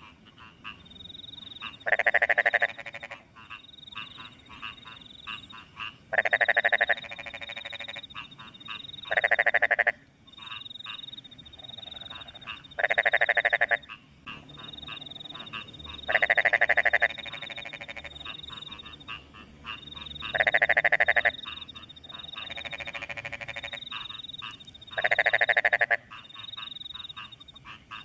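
Frogs in a wet rice field giving loud, rattling croaks, each just under a second long, about every three to four seconds. Behind them, crickets keep up a high, steady chirping.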